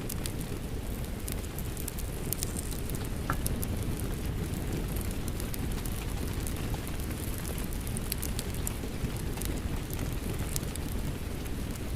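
Steady rain mixed with a crackling wood fire: a dense low rumble of rain under frequent small crackles and pops.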